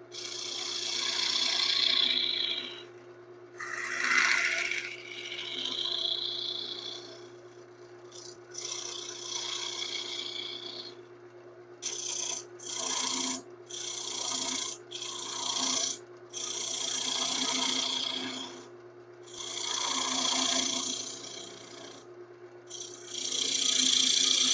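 Woodturning lathe running with a steady hum while a tool works the spinning wood in repeated scraping passes, each one to three seconds long, with short pauses between.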